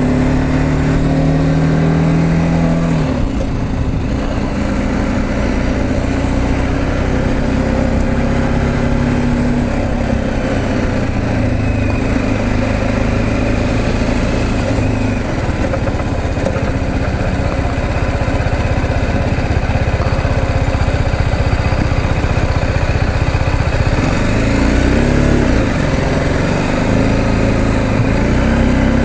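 BMW G310GS's single-cylinder engine running under way, with wind and road noise. The engine pitch falls about 24 seconds in as the bike slows, then rises near the end as it pulls away again.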